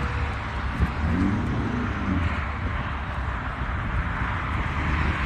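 Car engine running steadily with a deep low rumble, with faint voices in the background about a second in.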